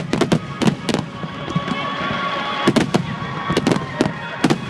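Large aerial firework shells bursting in a barrage: about a dozen sharp reports in quick clusters, near the start, a little past halfway and near the end.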